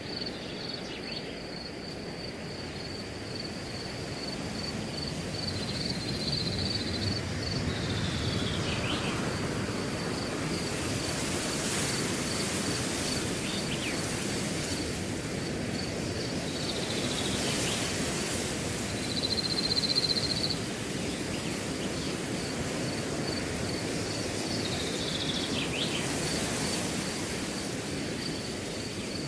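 Wind blowing through a grass field, swelling and easing in gusts with a rustling hiss, while a cricket chirps in a steady, even pulse. A brief louder trill about twenty seconds in is the loudest sound, and a few short falling calls come every eight or nine seconds.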